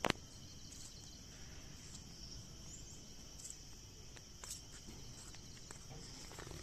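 Insects chirring in a steady, high, even drone, with one sharp click right at the start.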